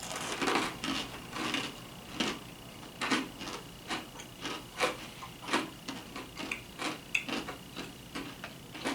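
Chewing crunchy toasted cracker rounds close to the microphone: irregular crisp crunches, roughly two a second.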